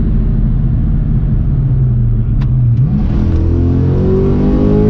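Car engine running at a steady low note, then about three seconds in the note climbs steadily as the car accelerates.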